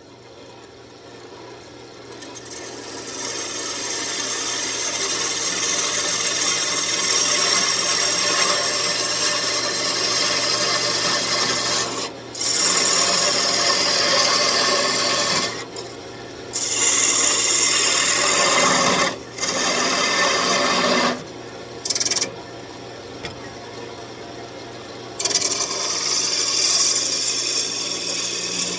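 Parting tool cutting into wood spinning on a lathe: a loud, steady scraping hiss in several long passes with short pauses between them, over the steady hum of the running lathe.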